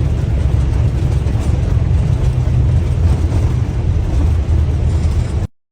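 Airbus airliner cockpit noise during the landing rollout: a loud, steady low rumble. It cuts off abruptly about five and a half seconds in.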